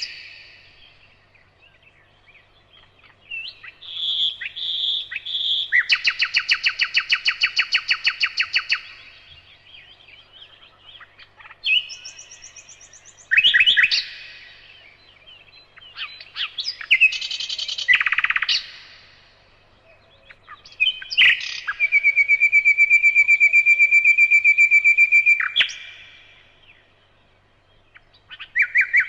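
Bird song in phrases a few seconds long, several of them fast trills of rapidly repeated notes, with short chirps between the phrases. The longest trill comes in the second half.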